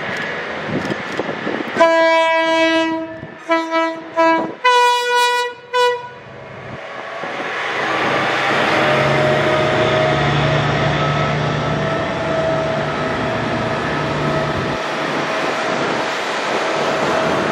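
Diesel freight locomotive CSR007 sounding its multi-chime horn in four blasts, the first long and the last very short, with the chord shifting on the later blasts. The train then comes past with a steady engine drone and rolling wheel noise that swells and holds.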